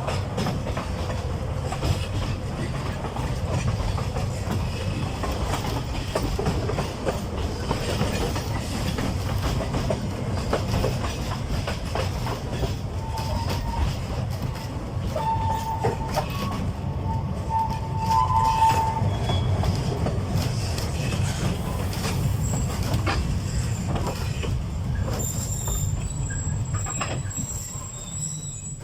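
Narrow-gauge forest railway train hauled by an Mk48 diesel locomotive, running with a steady low rumble and wheels clicking over the rail joints. A wheel squeal sounds briefly around the middle, and a high squeal comes near the end as the sound begins to fade.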